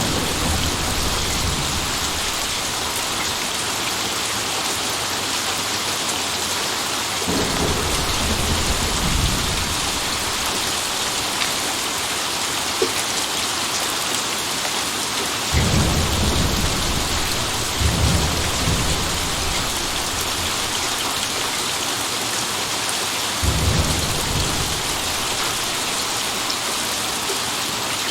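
Steady rain falling, with low rolls of thunder rumbling in four times over the stretch.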